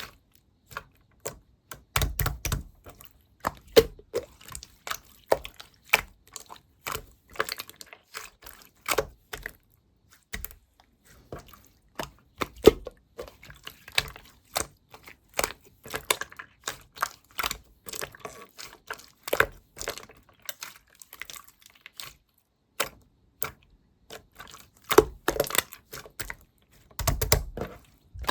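Slime being squeezed and pressed by hand, making irregular clicking and popping sounds, with a few louder, deeper squelches about two seconds in and near the end.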